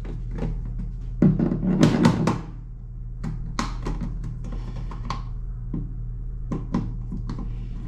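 Clicks and scraping of a hand screwdriver working the cover-plate screws of a rocker light switch, with a louder clatter about a second in.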